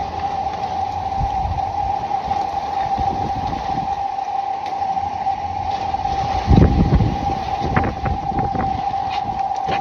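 A steady, eerie howling tone held on one pitch, typical of the Golden Gate Bridge humming in storm-force wind, with wind gusting on the microphone, the strongest gust about six and a half seconds in. The man filming takes the sound for an echo coming off the ocean and calls it the creepiest sound he has ever heard.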